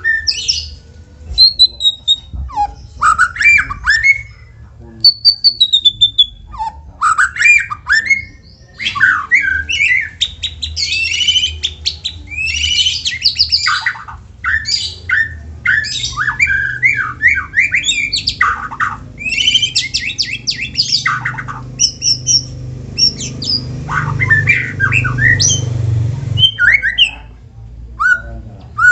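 White-rumped shama singing a long, varied song of clear whistles, fast repeated notes and harsh churring phrases, played as a lure recording to provoke a caged shama into singing. A low rumble runs under the song about three-quarters of the way through.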